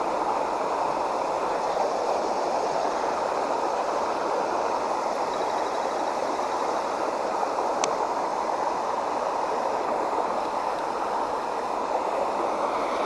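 Creek water running steadily, an even rushing babble.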